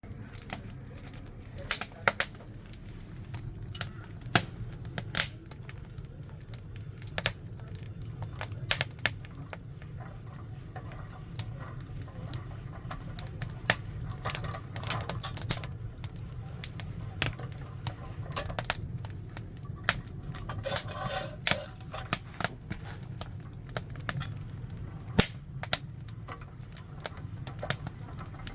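Firewood fire crackling, with scattered sharp pops and snaps at irregular intervals over a steady low rumble.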